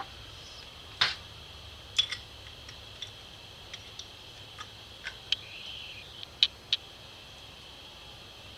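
Small metal carburetor parts and hand tools clicking and tapping irregularly on a workbench during reassembly, with a brief scrape about six seconds in, over a steady high-pitched background hum.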